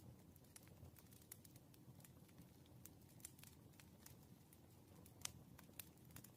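Faint crackling of a wood fire burning: irregular small pops and snaps over a low steady rumble, with one sharper pop about five seconds in.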